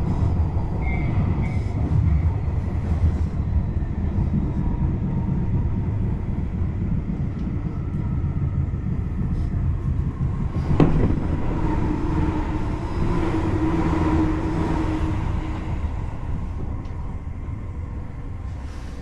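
Tobu Railway electric commuter train running on the rails, heard from inside the front car as a steady low rumble. A single sharp click comes about eleven seconds in, and the running sound eases off toward the end.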